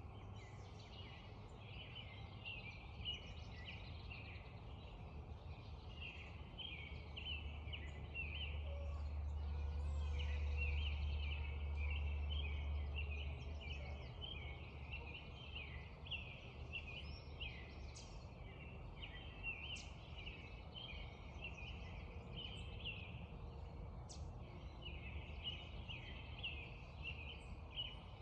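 Spring dawn chorus of birds: many short calls repeating densely and continuously. A low rumble swells and fades about halfway through.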